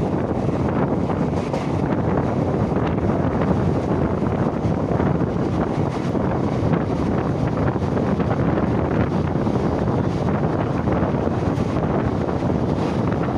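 Steady wind buffeting the microphone over the running noise of an Indian Railways passenger coach travelling at speed, heard at its open door.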